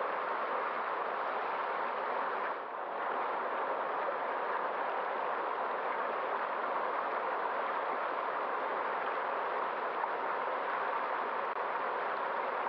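Steady rushing water of a stream, an even hiss with a brief slight drop in level about two and a half seconds in.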